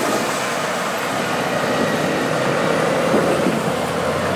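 Engines of several heavy motorcycles running steadily.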